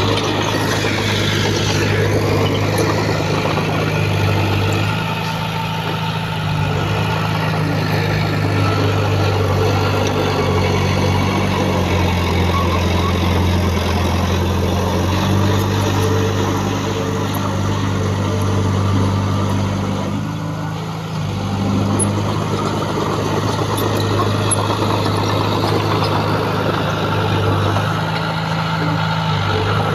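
Heavy diesel engine of earthmoving machinery running, its pitch stepping up and down as the engine speed changes, with a brief drop about two-thirds of the way through.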